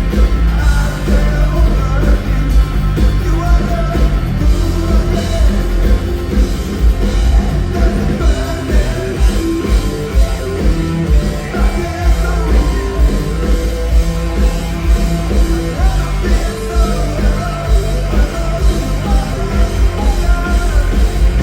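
Loud live rock band playing electric guitars, bass and drums with a steady beat, and some singing.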